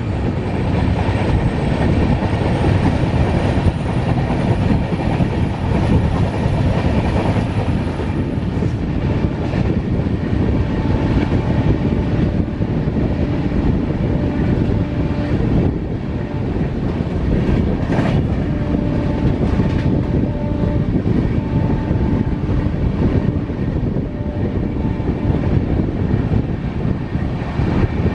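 Passenger train coach running on the track: a steady rumble of wheels and body noise, with one sharp knock about eighteen seconds in.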